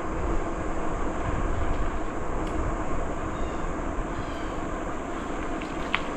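Steady wind buffeting the microphone and tyre rumble from a bicycle rolling along a trail. A few faint high chirps come through in the middle.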